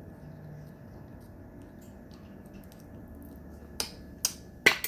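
Steamed crab shell cracking by hand: four sharp snaps in the last second or so, the loudest near the end.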